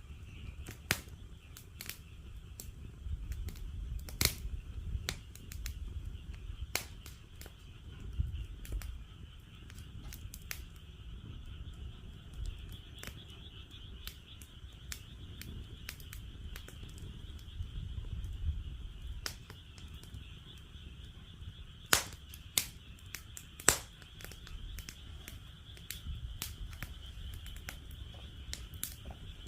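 Wood fire crackling in a fire pit stand, a steady scatter of sharp snaps with three louder pops about three-quarters of the way through. Behind it runs a steady high chorus of frogs.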